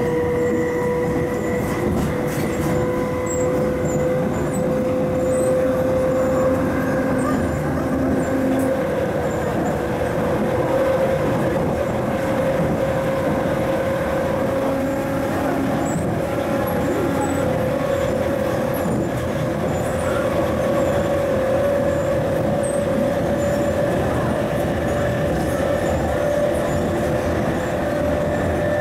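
MTR MLR electric multiple unit running, heard on board: steady rail and running noise with a motor whine that rises slowly in pitch as the train gathers speed.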